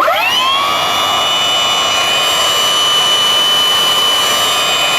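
A single 90mm Dr Mad Thrust electric ducted fan spinning up abruptly, its whine climbing in pitch and settling within half a second into a steady high whine at about 10% power.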